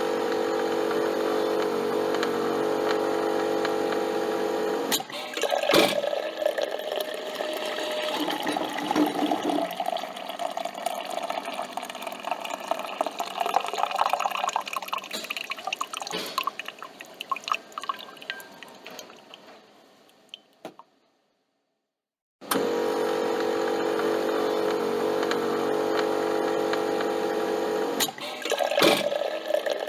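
Coffee machine's pump running with a steady hum, then coffee streaming and dripping into a cup, tapering off to silence; after a short pause the steady hum starts up again.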